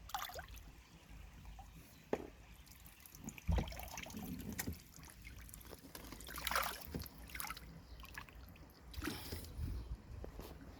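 Water splashing and trickling in irregular bursts, as water is moved during a goldfish pond water change, with a low thump about three and a half seconds in.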